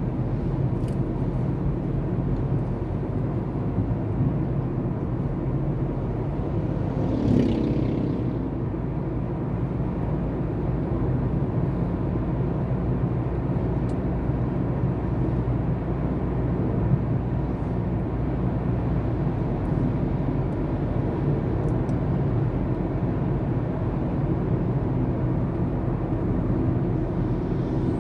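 Steady low rumble of a moving road vehicle, engine and road noise, with one brief louder sound about seven seconds in.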